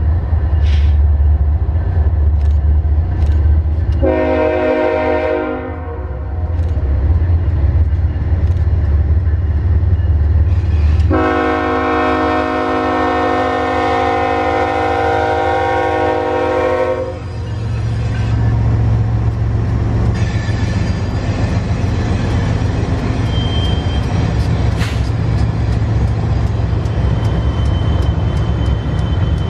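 BNSF diesel freight train passing, its locomotives rumbling low and steady; the multi-chime locomotive horn sounds a short blast about four seconds in and a long blast of about six seconds near the middle, then the rumble and rattle of the passing cars carries on.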